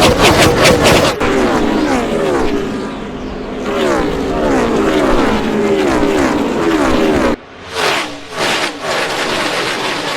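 NASCAR Cup stock cars' V8 engines at full throttle as a string of cars passes one after another, each engine note dropping in pitch as it goes by. About seven seconds in the sound cuts abruptly to another stretch of cars running hard, with quick surges in loudness.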